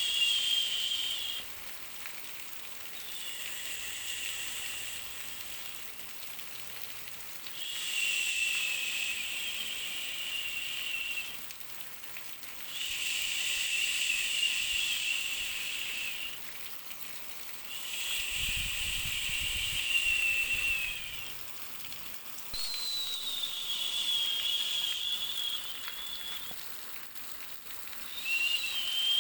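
High-pitched insect trills, each phrase lasting about three seconds and recurring roughly every five seconds, over a faint steady hiss.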